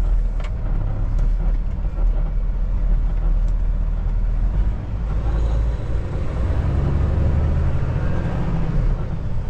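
Kenworth T680 semi truck driving on the road: its diesel engine and road noise make a steady low rumble in the cab, growing a little stronger about halfway through.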